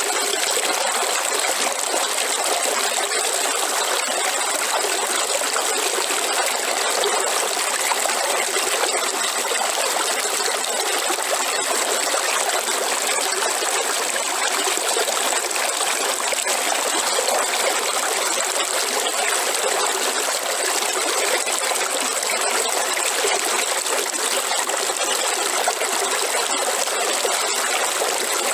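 River water flowing, a steady rushing with no breaks, with a thin, steady high-pitched hiss running over it.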